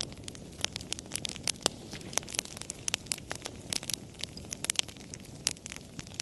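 Wood fire crackling: irregular sharp pops and snaps, several a second, over a steady low hiss of burning.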